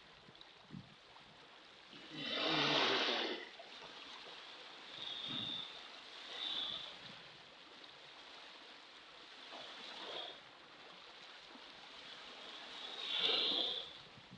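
Ocean waves washing in: two bigger surges, one about two seconds in and one near the end, with smaller washes between them over a steady background of surf.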